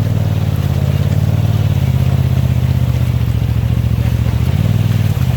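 2018 Polaris RZR XP Turbo S's turbocharged twin-cylinder engine running steadily while the side-by-side is driven, its note stepping up briefly near the end.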